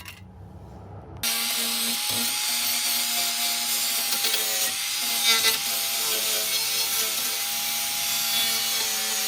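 Power grinder running steadily on rusty sheet-metal body panels, a hiss of abrasion over a steady motor whine. It starts abruptly about a second in and cuts off sharply at the end.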